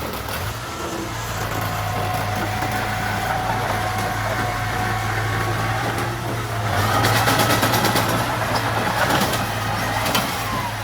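Diesel engine of earthmoving machinery running steadily with a whining tone over it. It grows louder about seven seconds in, with a rapid clatter.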